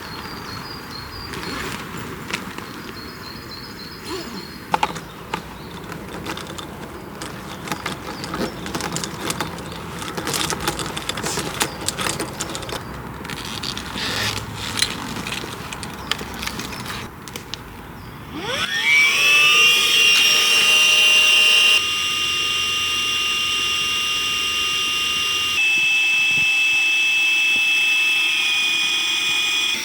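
Clicks and knocks of gear being handled, then about two-thirds of the way in a small electric motor starts. Its whine rises quickly and settles into a steady high tone that steps in pitch and level twice, typical of an electric air pump inflating an air tent.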